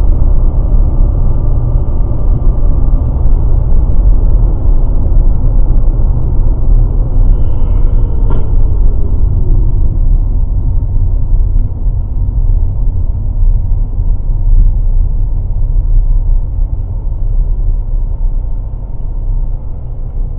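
Loud, steady low rumble of a moving car's engine and road noise picked up by a dash cam microphone, with one sharp click about eight seconds in.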